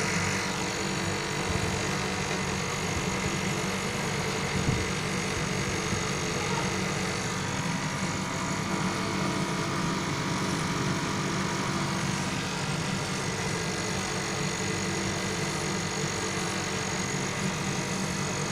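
Air conditioner unit running with a steady mechanical hum, with a single short knock about five seconds in.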